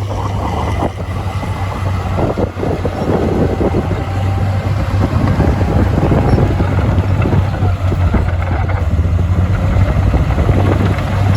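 Heavy diesel engine of earthmoving equipment running steadily under load, a deep low hum with rough mechanical noise over it.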